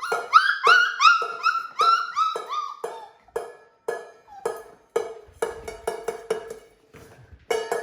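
Metal bowl being banged over and over, roughly two or three knocks a second, each one ringing on. For the first three seconds puppies yip over it in short, upward-sliding yelps; the knocks grow faster and louder near the end.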